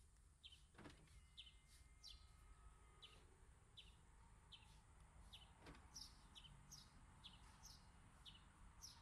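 Faint outdoor ambience of a bird chirping over and over, about three short chirps every two seconds. Two soft clicks, about a second in and again near six seconds, come from the Toyota Fortuner's remote lock and unlock, with a faint thin whine after the first click while the side mirrors fold.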